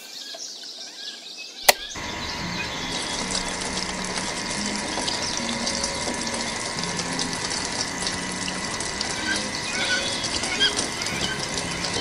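A sharp click, then water rushing steadily from a small electric water pump, its motor giving a thin steady whine under the splashing.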